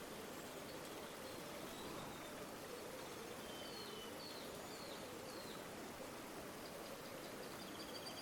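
River water flowing steadily, with a few faint short bird chirps near the middle.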